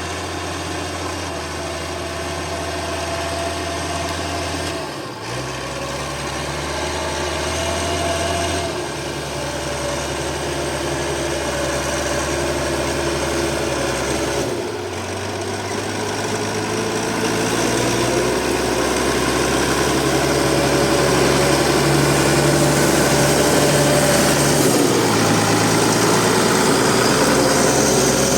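Massey Ferguson 399 tractor's six-cylinder Perkins diesel engine running steadily under the load of a chisel plow. Its low note shifts a few times, and it grows louder in the second half.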